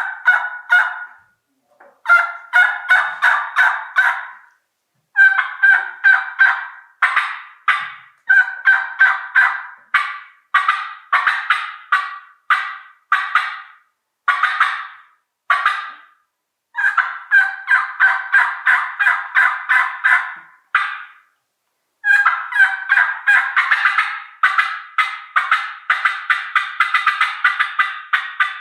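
Hen turkey calling on a three-reed latex diaphragm mouth call with a combo cut: runs of quick, sharp notes in several loud sequences a few seconds each, with short pauses between them and the longest run near the end.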